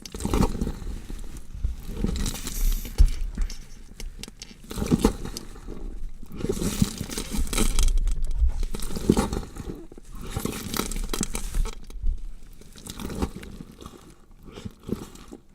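Body-horror dissection sound effect: flesh and bone being cut and torn apart, in irregular swells of dense crackling and clicks over a low rumble, thinning out and dying away near the end.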